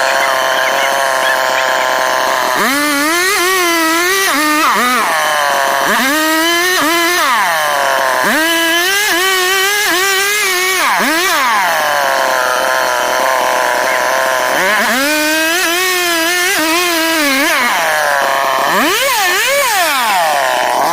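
STIHL two-stroke chainsaw cutting wood board. It runs up from idle about five times, and its pitch dips and wavers while the chain is under load. Between cuts it drops back to a low, steady idle, with longer idles at the start and about halfway through.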